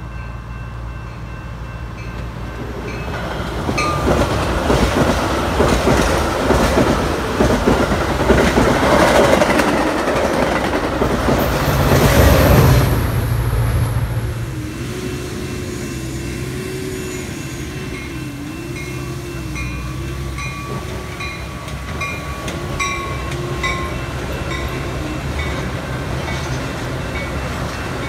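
A Metra diesel commuter train passes at speed, its wheels clattering over the rail joints. The noise builds over several seconds, is loudest about twelve seconds in, then drops to a steadier, lower rumble.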